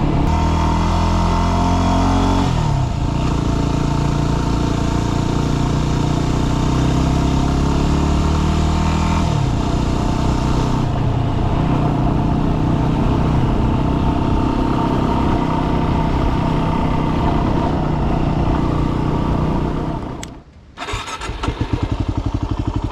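Yamaha WR250R's 250 cc single-cylinder four-stroke engine running under way, its pitch stepping down and up with throttle and gear changes. About twenty seconds in, the sound drops away for under a second, then the engine is heard again.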